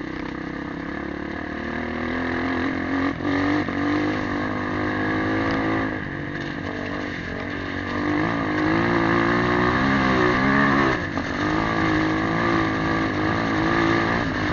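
Motorcycle engine running under way, its note rising and falling with the throttle and dropping briefly about eleven seconds in, as at a gear change.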